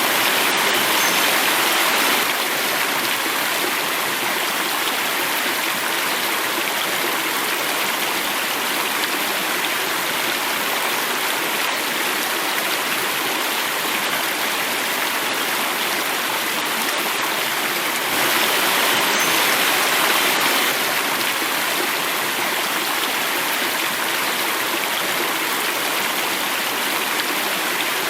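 Steady rushing of water flowing and falling over rocks, a stream with a small waterfall, swelling a little twice.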